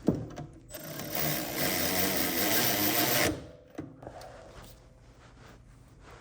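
Handheld power tool running in one burst of about two and a half seconds with a fast rattle, a sharp click just before it and a single knock shortly after.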